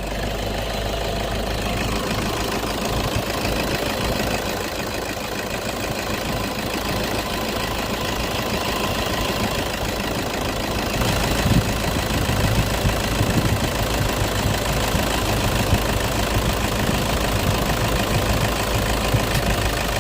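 Car engine idling steadily, growing a little louder about eleven seconds in.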